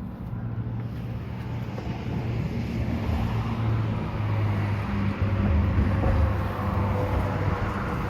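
Road traffic passing close by on a highway bridge: steady engine and tyre noise that grows louder through the middle as a vehicle goes past, then eases off near the end.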